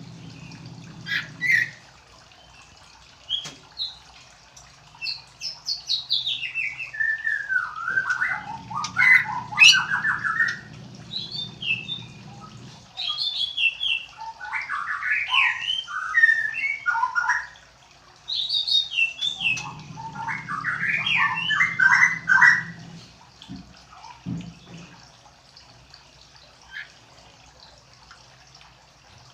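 Young white-rumped shama singing: rapid, varied phrases of chirps, whistles and trills, delivered in bursts of a few seconds separated by short pauses.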